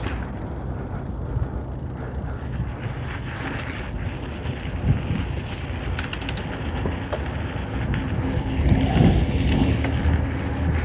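Mountain bike rolling over a dirt trail: tyre noise and chain and frame rattle, with wind on the chest-mounted phone's microphone. There is a brief run of fast, high ticks about six seconds in.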